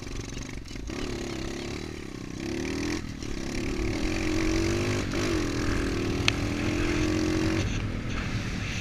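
MXF 125 dirt bike engine running under the rider, its note rising and falling as the throttle is opened and eased. It holds steadier for a couple of seconds before the throttle closes near the end, with one sharp tick about six seconds in.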